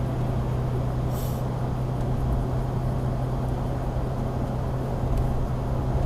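Steady road and engine noise inside a moving truck's cabin, with a constant low hum. A short high hiss about a second in.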